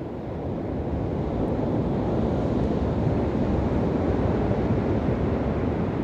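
Waves breaking and washing on a beach, a steady low rush of surf that swells about a second in.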